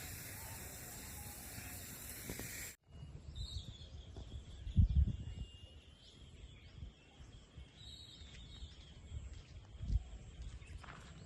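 Outdoor ambience: a steady hiss that cuts off suddenly about three seconds in, followed by faint high chirping bird calls and a few short low thumps, the loudest about five seconds in.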